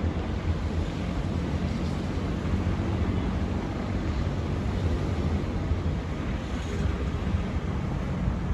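Wind buffeting the microphone over a steady rumble of city traffic.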